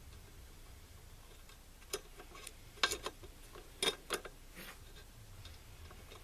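A handful of sharp metallic clicks and clinks, about seven, from small metal parts and tools being handled, bunched between about two and four and a half seconds in, over a faint low hum.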